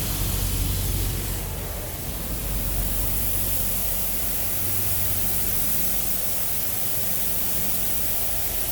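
Automatic car wash spray hissing steadily onto the van, heard from inside the cabin, with a steady low hum underneath.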